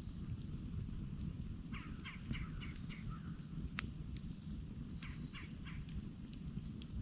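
Campfire burning with a steady low rumble and scattered sharp crackles and pops, one louder pop near the middle. A bird calls in a quick run of about six short notes around two seconds in, then three more about five seconds in.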